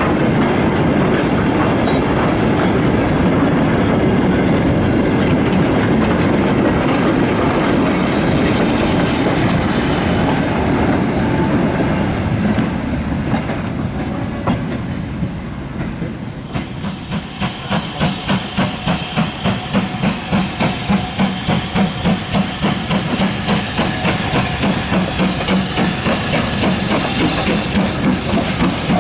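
Goods train wagons rolling past with a steady clatter over the rails. About two-thirds of the way in, this gives way to the rhythmic exhaust beats of a BR Standard Class 5 steam locomotive working hard, just under two chuffs a second.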